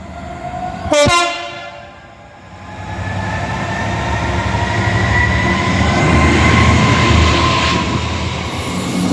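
A train horn sounds one short, loud blast about a second in. Then a train runs by, its rumble building, with a faint whine that rises slowly in pitch.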